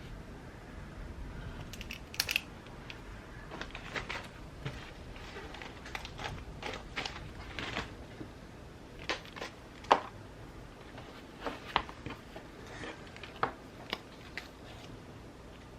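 Stationery handling while journaling: irregular small taps, clicks and brief paper rustles, a few sharper than the rest. Under them runs a faint steady hiss of background rain.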